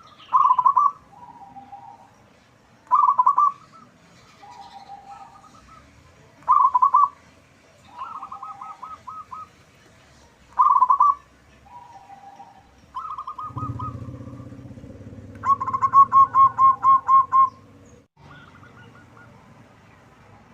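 Zebra dove (perkutut) singing: loud, rapid bubbling coos repeated every three to four seconds, with softer, lower coos between them. Near the end comes a longer run of quick pulsing coos over a low rumble.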